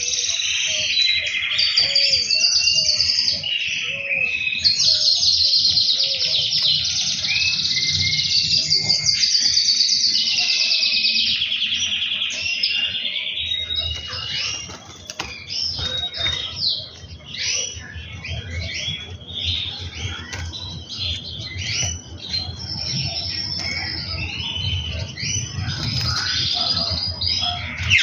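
Gloster canary singing: long, fast rolling trills for the first half, then shorter broken phrases and chirps from about halfway.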